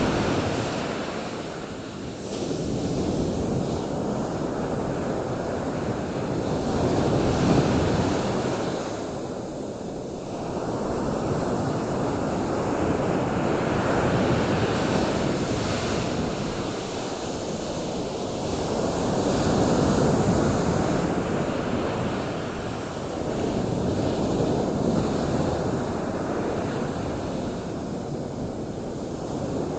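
Ocean surf: waves washing ashore in slow swells about every five or six seconds, with wind.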